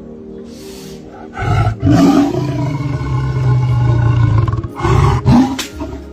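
Lion roaring over faint background music: one long, loud call starting about a second and a half in, then a shorter one near the end.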